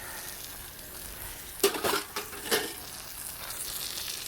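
Water running from a garden hose, a steady hiss, with a few short clattering knocks about halfway through.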